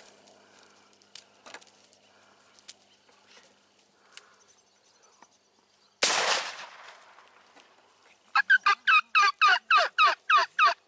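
A single shotgun blast about six seconds in, then a quick series of about a dozen sharp, falling wild turkey calls near the end.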